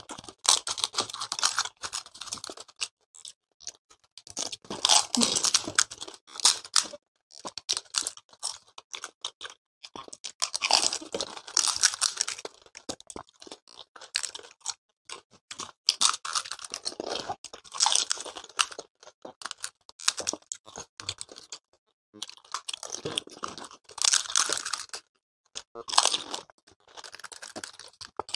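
Close-up crunching and chewing of panipuri: crisp, hollow fried puri shells filled with spiced water cracking between the teeth and then being chewed, bite after bite. The crunches come in bouts a second or two long with short quiet gaps between them.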